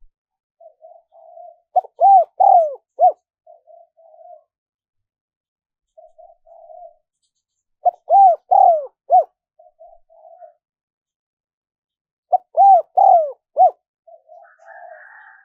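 Spotted dove cooing: three phrases about six seconds apart, each a run of four or five loud arched coos, with quieter short notes in between.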